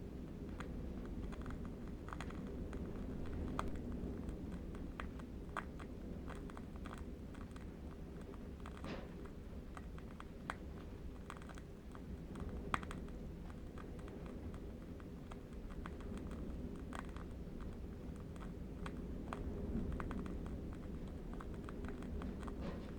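Ambience of a low, steady wind rumble with faint, irregular crackles and clicks from a burning candle wick scattered through it.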